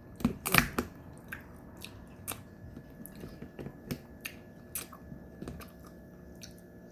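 Close-up chewing and wet mouth sounds of someone eating steamed crab, with scattered short smacks and clicks and a louder flurry of them in the first second.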